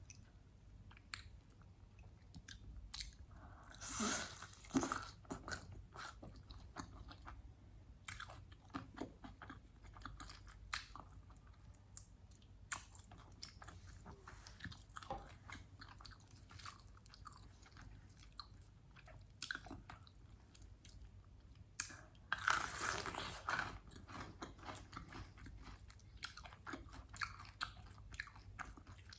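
Eating crispy fried chicken wings: steady chewing with small crunches, and two louder crunchy bites, one about four seconds in and a longer one near two-thirds of the way through.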